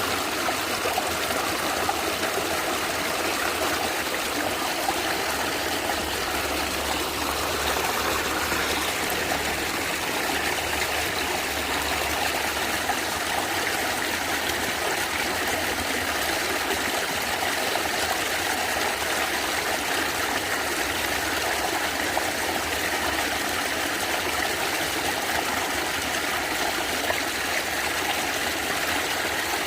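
Natural stream water gurgling and trickling steadily over stones, a continuous, even rush without breaks.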